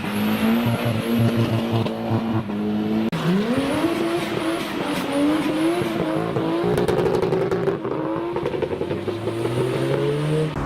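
Car engines revving hard, the pitch climbing and then holding high. The sound changes abruptly from one engine to another about three and seven seconds in.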